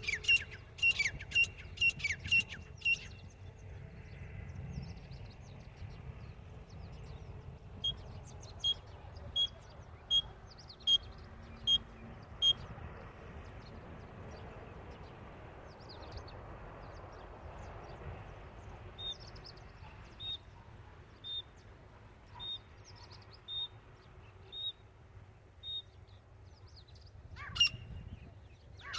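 Grey francolin (titar) calling: runs of sharp, high, evenly repeated notes. A quick run at the start, another a few seconds later, and a slower, slightly higher run in the second half, with the calls starting again near the end.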